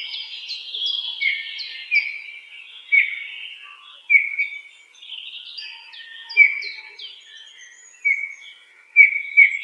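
Birds chirping: sharp chirps that drop quickly in pitch, repeated roughly once a second over a busy chatter of overlapping calls.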